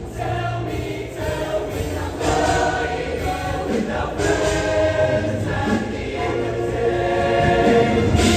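Show choir singing in sustained, harmonized chords, the notes changing about once a second.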